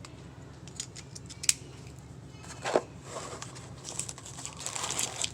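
Small plastic clicks and taps with light rustling as the parts of a 3-in-1 epilator kit are handled: two sharper clicks, one about a second and a half in and one near the middle, then soft rustling toward the end.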